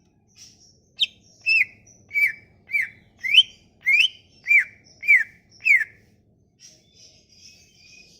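A songbird singing a run of about nine loud, clear whistled notes, each sliding quickly up or down in pitch, with faint high chirps before and after.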